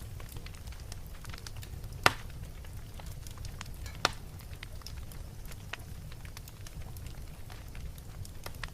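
Wood fire crackling in a fireplace over a steady low rumble, with two loud sharp pops about two and four seconds in.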